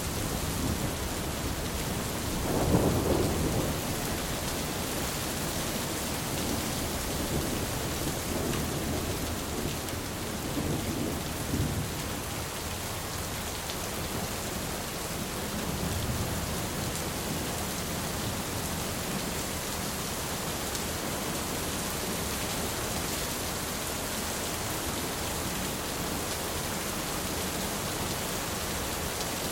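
Thunderstorm: steady rain with rolling thunder. A louder rumble comes about three seconds in, and several fainter rumbles follow through the middle.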